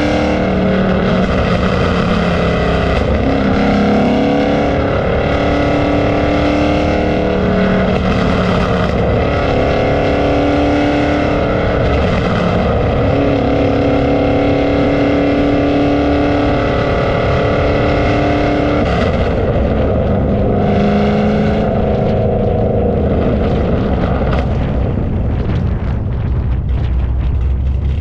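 Car engines running steadily, their pitch holding for a few seconds at a time and then stepping up or down.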